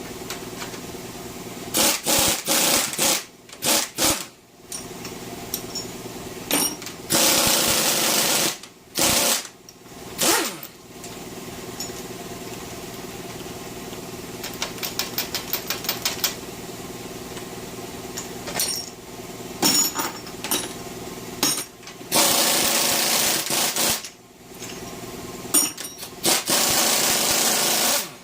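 Pneumatic impact wrench run in repeated bursts of one to two seconds, loosening bolts on a Chevrolet 350 small-block V8 during teardown, with a stretch of rapid, even hammering about halfway through. A steady low hum runs underneath.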